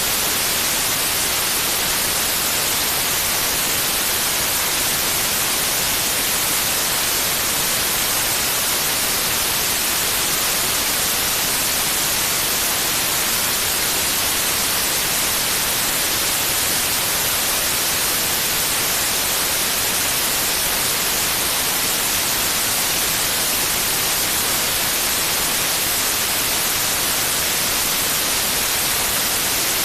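Steady white noise: a constant, unchanging hiss, strongest in the high frequencies.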